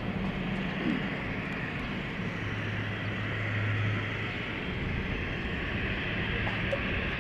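Jet airliner engines running, a steady rushing noise, with a low steady hum underneath that fades out about four seconds in.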